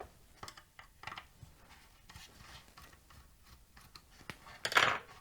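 Small clicks and rubs of parts being handled, with one louder scraping rub near the end, as the DC input jack is worked loose from a radio's plastic case.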